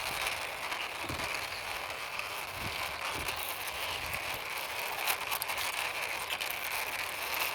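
Plastic toy racing car pushed along by hand, its wheels giving a steady rolling rattle with a few light clicks.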